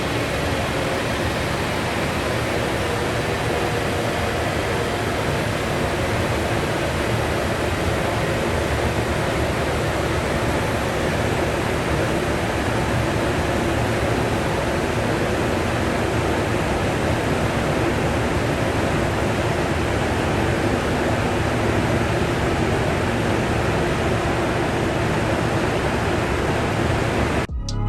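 Large dyno-cell cooling fan blowing steadily, a constant rush of air with a faint steady hum underneath and no change in pitch.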